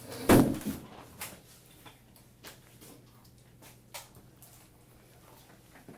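Chair set back down on the floor: a thud about a third of a second in, then scattered faint clicks and taps in a small room.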